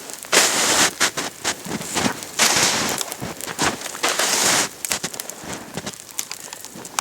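Campfire of spruce and birch bark crackling and popping, with a few louder bursts of rustling, crunching noise.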